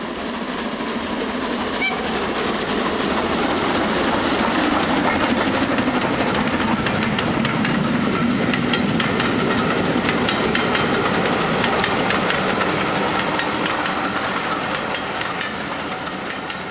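A model train running along an exhibition layout: a steady clatter of wheels on track, with many fine clicks, that swells as it approaches and fades away near the end as it passes.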